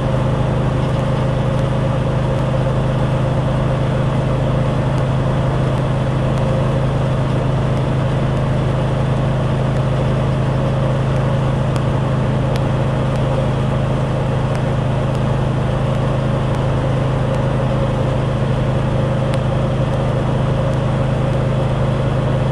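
Ford F600 grain truck's engine running steadily on the road, heard from inside the cab as a constant low drone with road noise.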